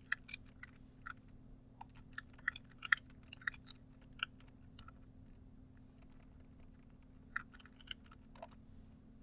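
Computer keyboard typing: irregular keystroke clicks, a quick run for about five seconds, a pause of a couple of seconds, then a few more keystrokes near the end.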